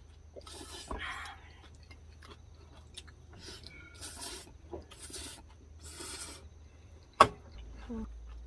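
Several short rustling, rubbing handling sounds, each about half a second, then one sharp knock about seven seconds in.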